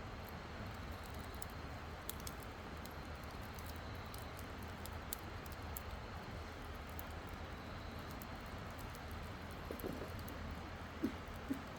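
Wood campfire burning, with scattered small crackles and pops over a steady hiss, and a few duller knocks near the end.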